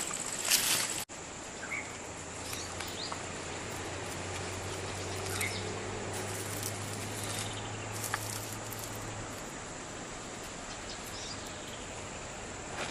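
Outdoor ambience with a steady high insect drone, a low steady hum through most of the first nine seconds, and scattered light ticks.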